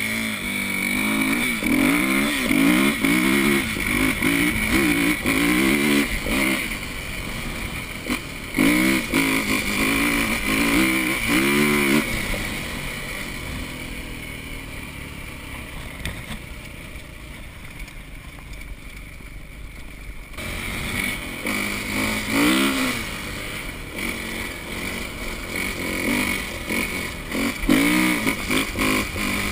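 Four-stroke dirt bike engines revving hard, the pitch climbing and dropping again and again as the riders work the throttle and gears. About halfway through the engines fall quieter for several seconds, then rev up loudly again.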